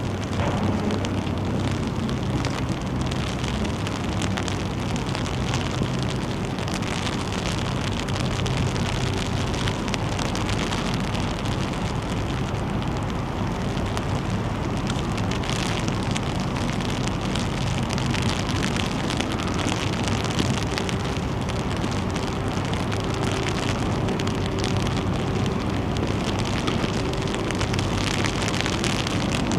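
Steady rain falling, an even hiss with wind, and a low steady hum underneath.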